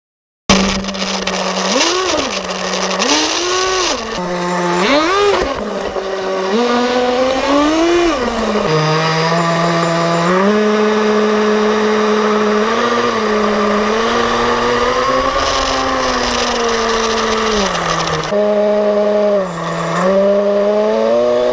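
Small two-stroke engine of a gas-powered RC car, starting abruptly and revving up and down several times in quick succession. It then runs at a steady higher speed with small changes in pitch, and eases off briefly near the end.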